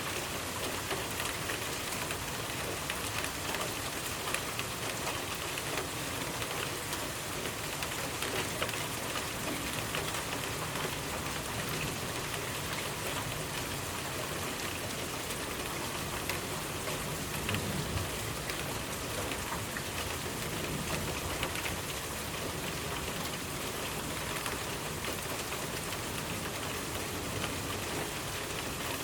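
Steady rainfall, with dense, fine drops pattering on surfaces.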